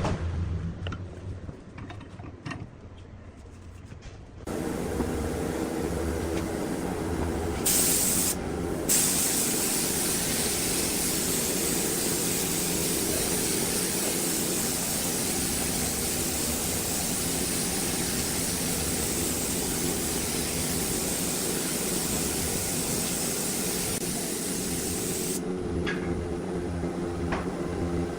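A steady, loud hiss over a machine hum, starting about four seconds in after a quieter low rumble, with a brief louder burst about eight seconds in.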